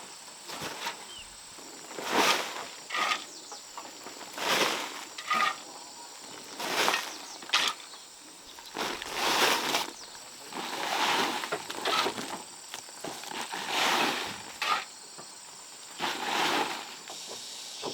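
Repeated scraping strokes of a hand tool working soil, one roughly every two seconds, each about half a second long.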